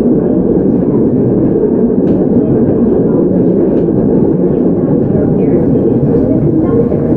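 Hokuriku Railroad 03 series electric train (ex-Tokyo Metro 03) running along the line, heard from inside the car: a steady, loud rumble of wheels on rail with a few faint clicks.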